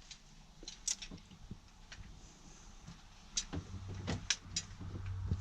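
Scattered clicks and knocks of copper pipe and tools being handled during pipe bending, with a low steady hum coming in a little past halfway.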